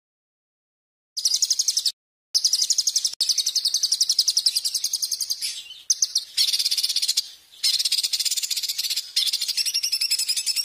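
A songbird giving a rapid, high, harsh chattering trill of a dozen or so chirps a second. It starts about a second in and runs in long phrases with brief pauses between them.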